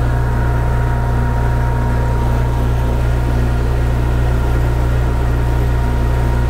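Metal lathe running at about 200 RPM with the lead screw engaged, feeding a single-point threading tool on a boring bar through a metric internal threading pass: a steady, unchanging motor drone with a low hum.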